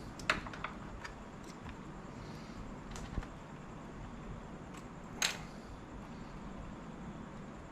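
A few small sharp clicks and taps from handling the laptop's internal parts, the loudest about five seconds in, over a faint steady background hiss.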